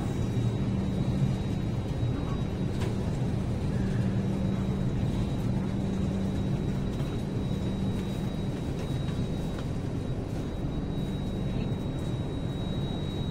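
Train running with a steady low rumble and hum, and a faint high-pitched whine over it.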